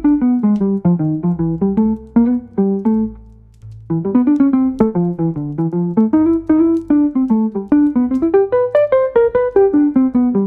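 Piano music: a melody of struck notes moving down in falling phrases, with a brief pause about three seconds in.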